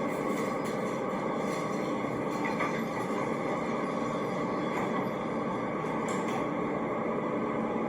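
Elevator car running between floors: a steady mechanical rumble and hum.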